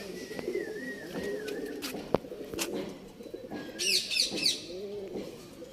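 Domestic pigeons cooing repeatedly, with a run of quick high chirps about four seconds in and a sharp click just after two seconds.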